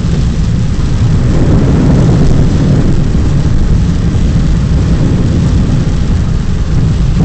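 A car driving through heavy rain: a steady, loud low rumble of vehicle and road noise with rain hiss over it.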